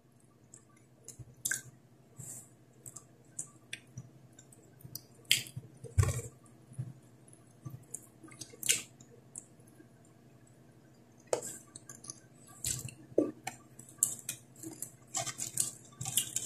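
Close eating sounds: chewing and mouth smacks on crispy, flour-coated fried fish, with fingers picking at the fish. Short clicks and smacks at irregular intervals, a little busier near the end.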